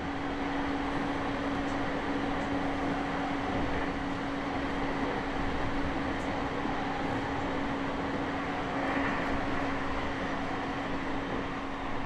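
Commuter train running along the line, heard from inside the carriage: a steady rumble of wheels on rails with a steady low hum, growing louder over the first second and then holding.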